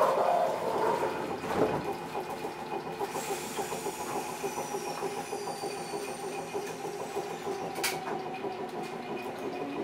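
Eizan Electric Railway Deo 700 series car 721 running along the line, heard from inside the passenger car: a steady rumble of wheels and running gear with a couple of sharp clicks. A faint high whine falls in pitch about three seconds in.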